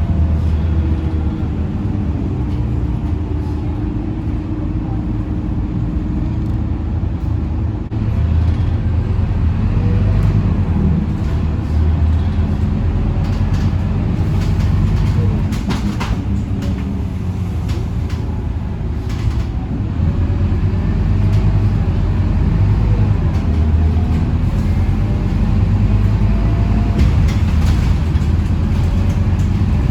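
Scania K230UB single-deck city bus heard from inside the cabin: its five-cylinder diesel engine runs under way, its pitch rising and falling as the bus speeds up and slows. Short rattles and clicks come from the cabin fittings.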